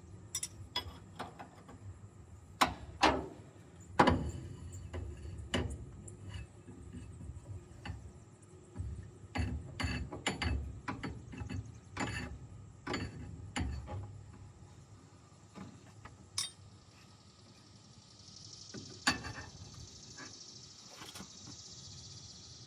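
Irregular clinks, clicks and knocks of hand tools and metal parts as the hood of a Caterpillar D6C bulldozer is worked loose, with a soft hiss near the end.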